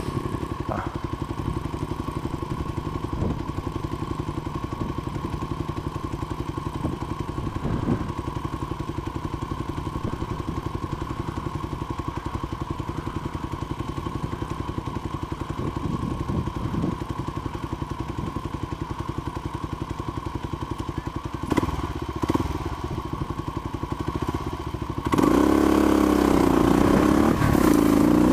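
Small dirt bike engine running steadily, with two sharp knocks about three-quarters of the way through. In the last few seconds it gets much louder and revs up and down.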